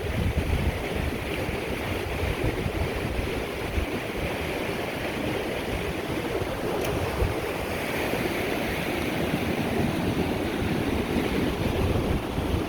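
Lake Erie waves washing steadily onto the shore, with wind rumbling on the microphone.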